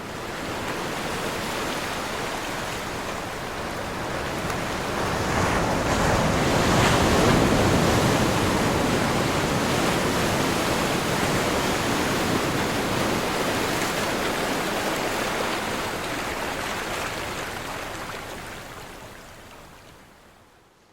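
Ocean waves crashing on a shore: a continuous rush of surf that swells to its loudest about seven seconds in, then fades out slowly toward the end.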